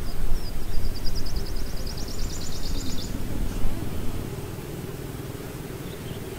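A bird's fast, high trill of evenly repeated notes, rising slightly, lasting about three seconds. A low rumble underneath drops and steadies about four seconds in.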